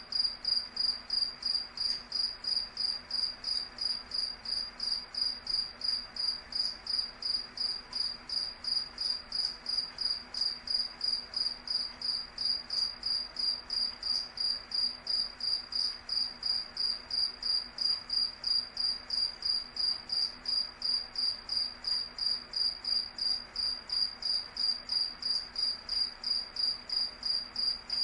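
Cricket chirping in an even, steady rhythm of about three high-pitched chirps a second.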